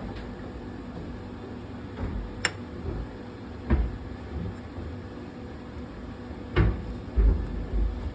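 Metal tools clinking and knocking against engine parts while nuts and bolts are worked on: a few sharp clicks and several dull knocks, the loudest about two-thirds of the way through, over a steady background hum.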